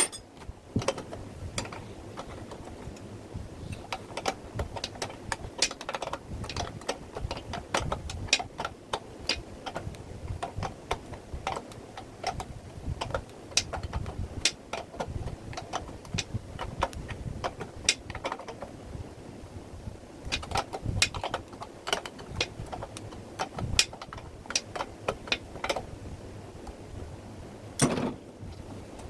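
Irregular clicks and light knocks of tools and small metal parts being handled, over a low rumble, with one louder knock near the end.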